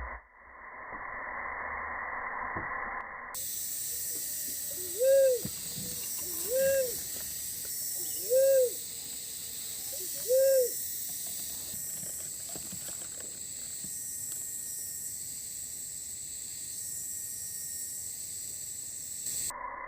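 Cuckoo-dove (uncal) cooing: four low hooting notes, each rising and falling, about two seconds apart. A steady high hiss runs behind them.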